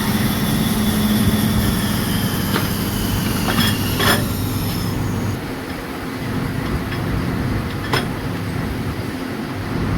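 Workshop machinery running with a steady hum and a few sharp metallic clicks. A high hiss cuts out about halfway through.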